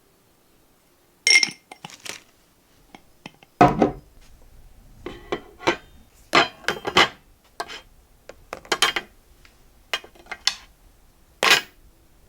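Dishes and kitchenware being handled: a ringing clink about a second in, then a run of sharp knocks and clatters, with a last loud one near the end.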